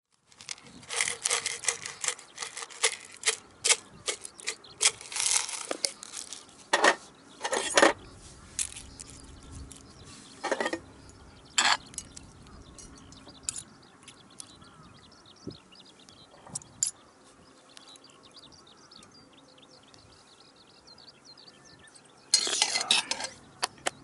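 Utensils clinking and scraping against camp cookware: a quick run of sharp clicks, then scattered single clinks, then a louder scraping burst near the end.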